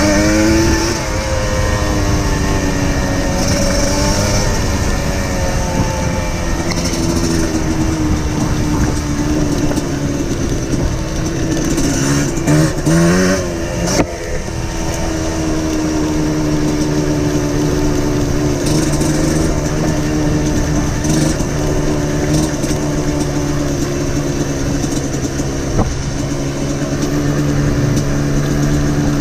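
Trail motorcycle engine running steadily under way on a rough dirt lane, its revs rising and falling with the throttle. About halfway through the revs climb briefly, then drop sharply.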